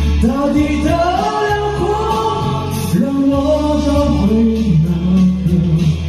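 A man singing a slow Mandarin pop ballad over instrumental accompaniment, holding long notes over a steady bass.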